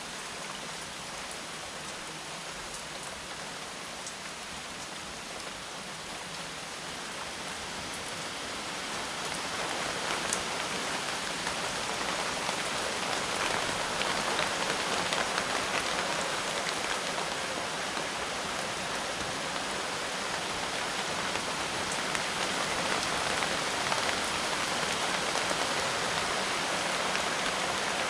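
Steady rain falling, with scattered individual drops ticking; the rain gets heavier about a third of the way in and then holds steady.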